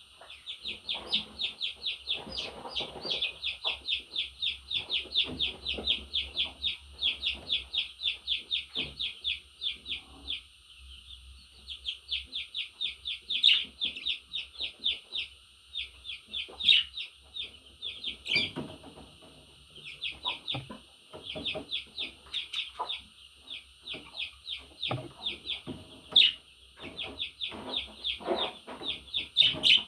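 Budgerigar chattering: long runs of quick, short high chirps repeated several times a second, with brief pauses between runs and softer scattered chatter and clicks underneath.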